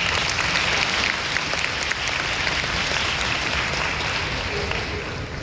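Audience applauding, a dense clatter of many hands that dies down near the end.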